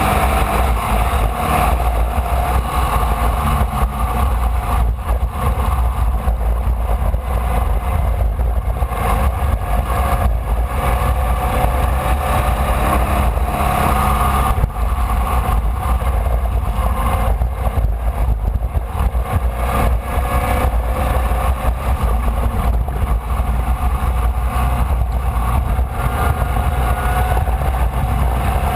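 Formula Vee race car's air-cooled Volkswagen flat-four engine running hard at racing speed, its pitch rising and falling repeatedly with the revs, over a heavy, constant low rumble.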